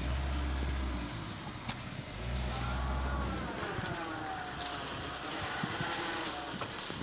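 Car driving through mud, its engine revs rising and falling around the middle, with heavy low rumbles and scattered knocks and clunks.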